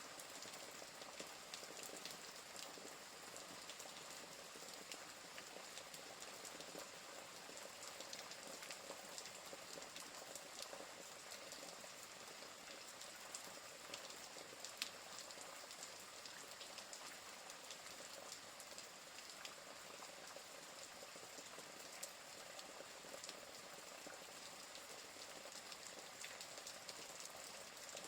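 Faint, steady rain hiss mixed with the scattered small crackles and clicks of a wood fire, with one sharper pop about halfway through.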